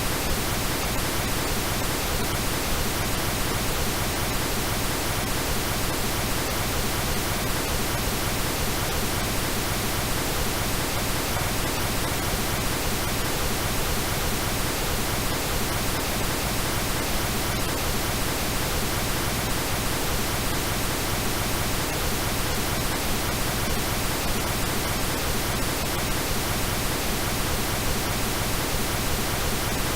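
Synthesized pink noise: a steady, even hiss that does not change.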